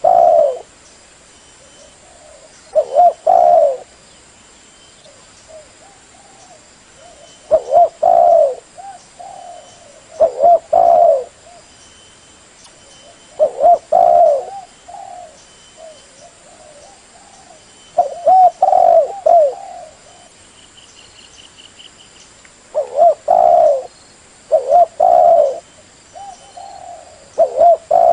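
Spotted dove (terkukur) cooing: short phrases of a few low, rolling coos, repeated every three to five seconds.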